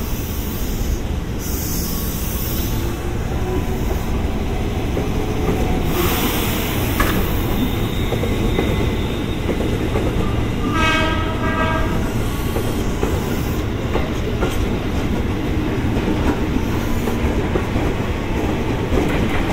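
Japanese-built electric commuter train running past on the near track, with a steady heavy rumble and wheels clacking over the rails. A short pitched horn blast sounds about eleven seconds in.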